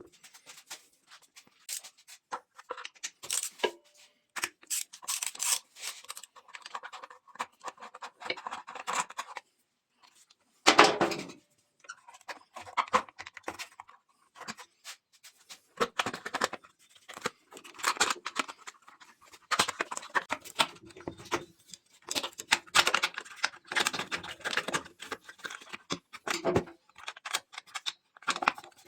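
Irregular clinking, rattling and clicking of metal tools and engine parts being handled, with a louder knock about a third of the way through.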